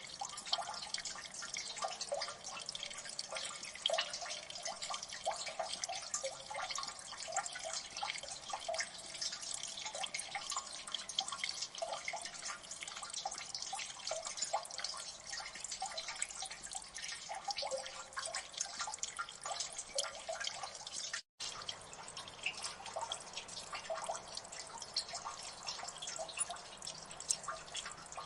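Water dripping in a gully: many quick, irregular drips pattering close together at a steady level. The sound cuts out for an instant about two-thirds of the way through.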